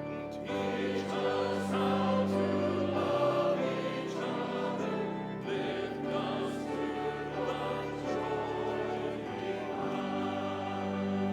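A worship hymn sung by many voices together, with instrumental accompaniment and held chords over a steady bass line.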